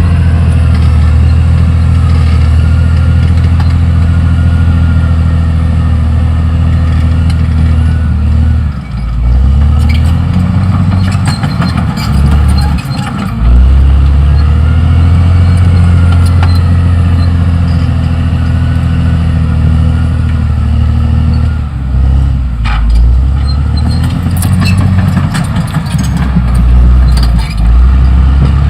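Caterpillar D6R XL bulldozer at work. Its diesel engine runs steadily, and the note dips and shifts a few times as the load changes. Clusters of sharp knocks and clanks come in the middle and again near the end.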